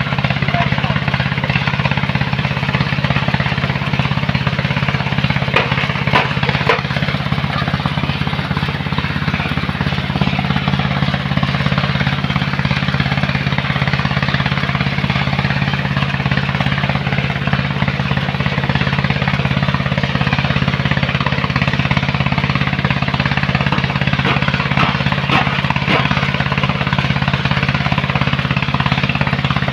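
Heavy sand-loading machinery running steadily at constant speed: a deep, even engine hum under a dense rushing noise, with no change in pace.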